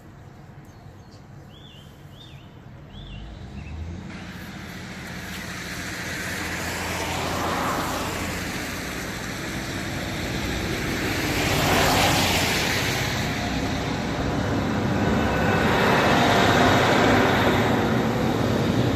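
Road traffic passing at a level crossing: several vehicles go by one after another, each swelling and fading, the loudest about two-thirds of the way through.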